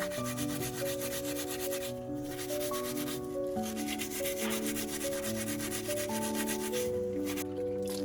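Steady sanding, an even run of fine rubbing strokes, over background music of slow held melody notes.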